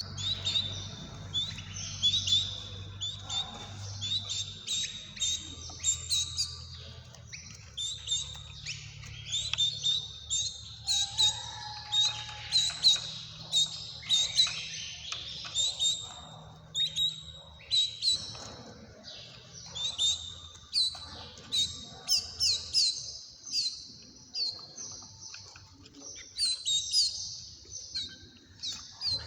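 Small caged birds chirping: many short, sharp high calls in quick succession, with a faint low hum underneath that fades about halfway through.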